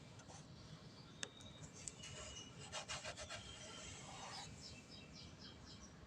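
Faint rubbing and scraping with a few light clicks and knocks, busiest in the middle; no machine running.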